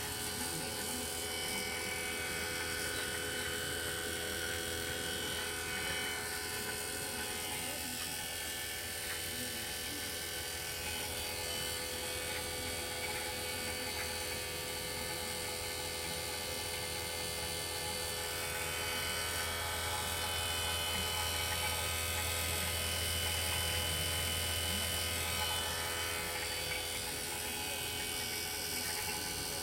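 A motor-driven machine running steadily with a low hum, a set of steady tones and a hiss, growing slightly louder about two-thirds of the way through.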